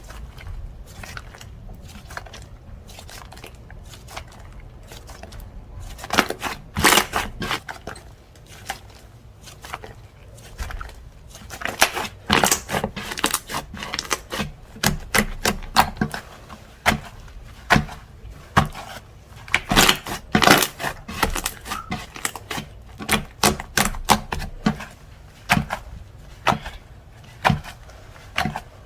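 Slime being squeezed, poked and pressed by hand, giving sharp, irregular clicks and pops of trapped air. It is faint for the first few seconds, then turns into loud, dense runs of clicks from about six seconds in.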